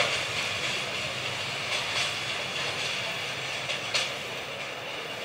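A train running on the rails of a single track laid between houses, a steady wheel noise with a few sharp clacks, slowly fading as it moves away.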